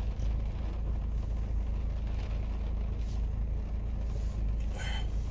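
Car engine idling steadily, heard from inside the cabin as a low hum, with a brief slurp of iced coffee near the end.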